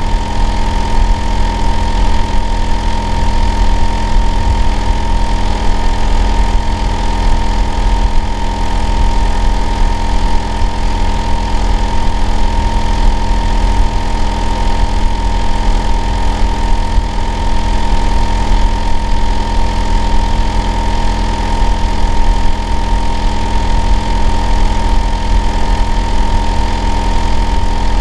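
Hitachi air-conditioner outdoor unit running loudly and steadily: a deep hum with a constant whine just under 1 kHz over the top. The unit's noise is what the neighbour complains of as abnormally noisy.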